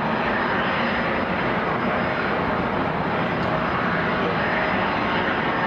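Steady jet engine noise from a Boeing 757-200 with Pratt & Whitney PW2037 turbofans, arriving to land.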